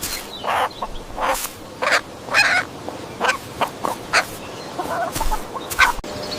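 Farmyard fowl calling: a string of about ten short, separate calls at an uneven pace.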